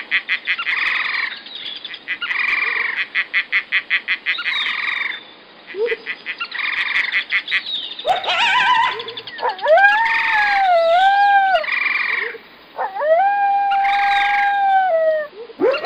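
An animal's rapid rattling call, repeated several times. From about eight seconds in, a wolf howls: two long howls that rise, hold with a slight waver, then fall away.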